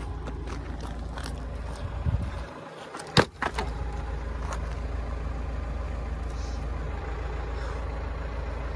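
A steady low rumble with scattered small clicks, and one sharp knock about three seconds in.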